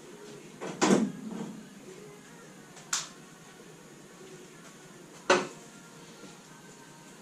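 Metal tools and parts clanking during work on a classic Mini's engine bay: three separate sharp knocks, the loudest about a second in, a smaller one near three seconds and another loud one about five seconds in.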